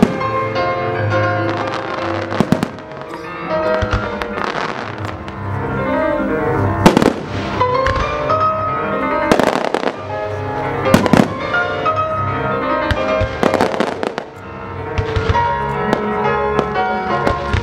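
Firework shells bursting in sharp booms, one every two seconds or so, over classical music played to accompany the fireworks. The loudest bursts come about seven, nine and a half, and eleven seconds in.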